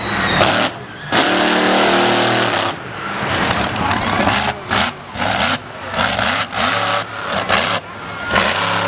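A loud vehicle engine being revved hard: held high for a couple of seconds near the start, then blipped on and off repeatedly, with a wide rush of exhaust and tyre noise over it.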